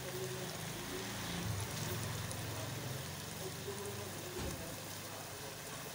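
Potato and eggplant curry frying in a pot in its separated ghee, a steady sizzling hiss, with a faint low hum underneath and one soft knock about four seconds in.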